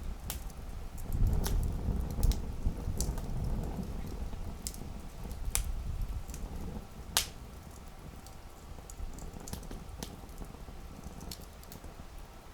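Campfire crackling, with sharp pops scattered irregularly. The loudest pop comes about seven seconds in. A low rumble under the pops is stronger in the first half and eases off.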